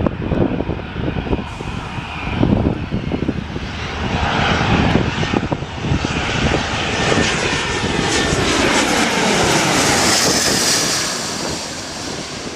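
Airliner passing close by, its engine noise swelling to a peak about ten seconds in, with a whine that falls in pitch as it goes past. Wind buffets the microphone early on.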